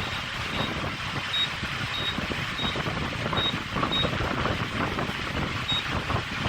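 Fuel pump keypad beeping as a number is keyed in: about eight short, high beeps at uneven intervals. Underneath is a steady rumble of engine and wind noise.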